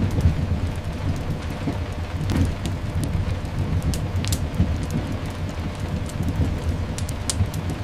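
Steady rain over a continuous low rumble, with scattered sharp crackles and pops. It is a layered rain, thunder and fireplace sleep ambience.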